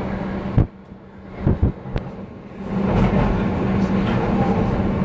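Docklands Light Railway train running, with a steady hum and rumble. The noise cuts off abruptly with a click about half a second in, a few knocks sound in the quieter stretch, and the train's rumble and hum come back nearly three seconds in.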